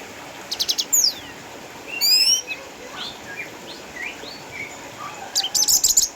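Orange-headed thrush singing a varied song: a loud burst of rapid trilled notes with a falling whistle about half a second in, a rising phrase around two seconds, softer scattered notes, then another loud rapid burst near the end.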